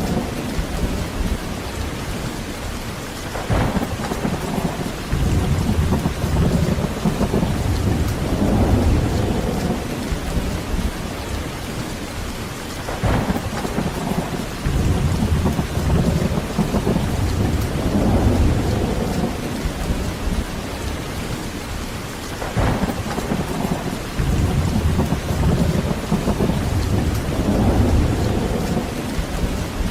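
Heavy rain falling steadily with rolling thunder: low rumbles swell and fade every few seconds, and a sharp crack of thunder sounds three times, roughly ten seconds apart.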